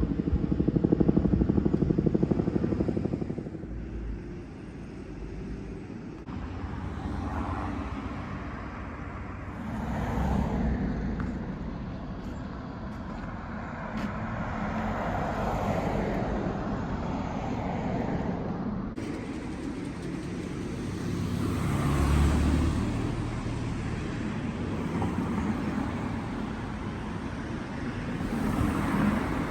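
Street ambience with road traffic: cars passing along a town road, the loudest one near the start and others swelling past later.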